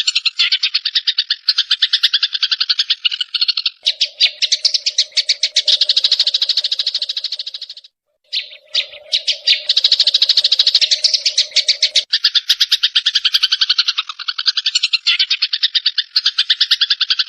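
Eurasian tree sparrows giving their fighting calls: a fast, unbroken chatter of harsh chirps. It breaks off briefly about eight seconds in. Through the middle stretch a lower, steady buzzing tone sounds beneath the chirps.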